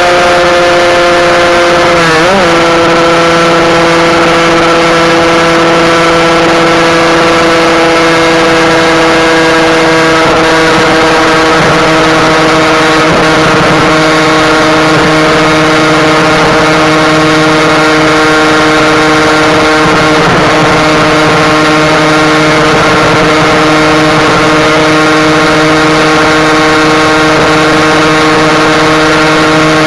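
Husqvarna SM 125 single-cylinder two-stroke supermoto engine held at high revs under steady throttle, its exhaust restrictors removed. The pitch wavers briefly about two seconds in, then stays nearly level and dips slightly at the very end.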